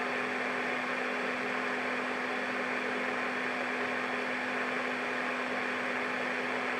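Transistor radio's speaker giving a steady hiss of static with a low steady hum, and no signal coming through.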